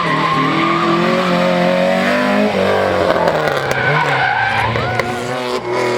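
Historic rally car driven hard past the spectators, its engine note dropping then climbing again after a change about two and a half seconds in, with tyres skidding on the loose surface as it slides.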